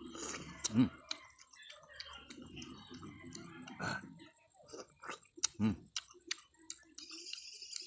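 Mouth sounds of a person eating santol fruit pulp: wet chewing, sucking and smacking clicks, with two short voiced grunts or exhales, about a second in and about halfway through.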